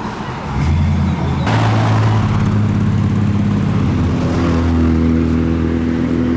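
Car engines running at low revs as cars drive slowly past; one engine's note steps up in pitch about four seconds in.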